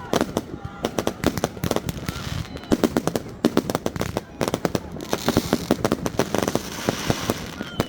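New Year's fireworks going off on all sides: many rapid, overlapping bangs, with a few thin whistles. A stretch of dense crackling comes near the end.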